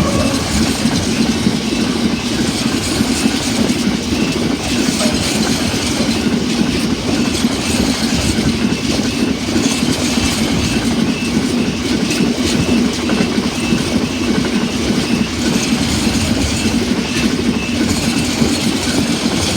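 A long Freightliner freight train's wagons rolling past at speed behind a Class 66 diesel locomotive. The wheels give a steady, loud rumble and a clickety-clack over the rail joints.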